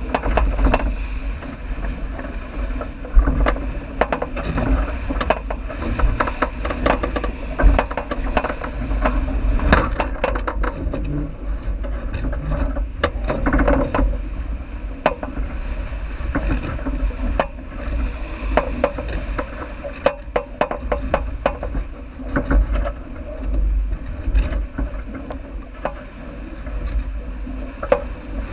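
J80 sailboat under way downwind: steady rushing of wind and water against the hull, with frequent irregular knocks and splashes. A heavy low rumble of wind on the microphone runs under it all.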